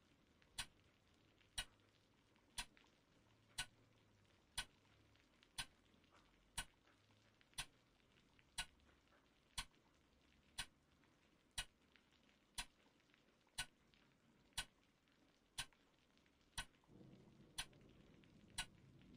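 A clock ticking slowly and evenly, one sharp tick about every second, over near silence. A low rumbling noise swells up under the ticks near the end.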